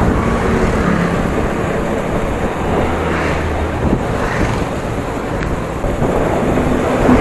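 Wind rushing over the microphone of a moving motorcycle, with the engine's low hum underneath.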